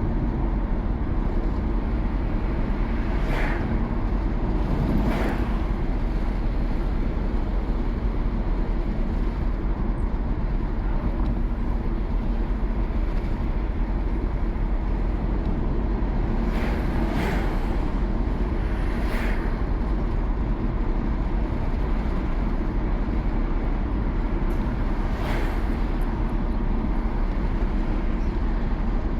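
Car driving along a road: steady engine and tyre noise with a constant low hum. A few brief swells of noise come through, about two early on, two or three in the middle and one near the end.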